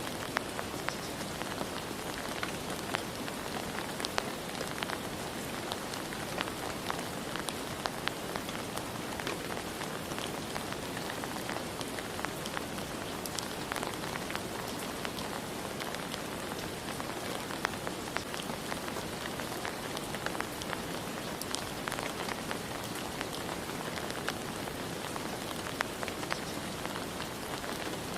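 Steady rain falling, with a dense hiss and many separate drops pattering and ticking on a surface.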